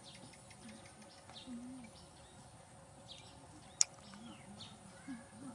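Faint, scattered short falling bird chirps over a steady high-pitched whine, with a single sharp click a little under four seconds in.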